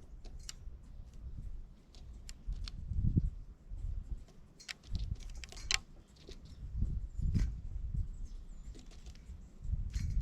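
Small birds at a backyard feeder: irregular clicks and taps with a few short, faint high chirps, over swelling low rumbles.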